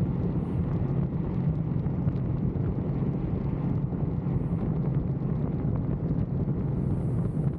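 Motorcycle engine running steadily at freeway speed, with wind rushing over the microphone.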